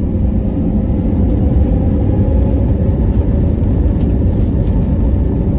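Airbus A321neo's Pratt & Whitney PW1130G-JM geared turbofan engine running, a loud steady rumble with a faint steady hum tone above it.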